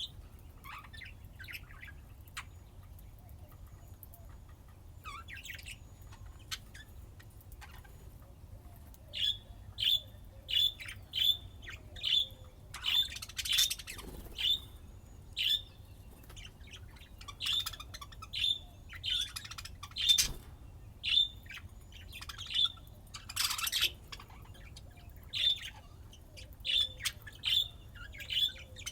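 Budgerigars chirping: scattered soft calls at first, then from about nine seconds in a run of sharp, high chirps, about one or two a second, broken twice by a longer harsh squawk.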